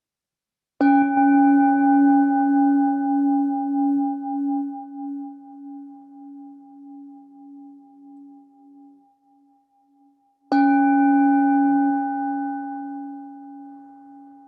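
Meditation bell struck twice, about ten seconds apart, each strike ringing on and fading slowly with a wavering pulse; the second is still ringing at the end. The bell marks the close of the formal meditation practice.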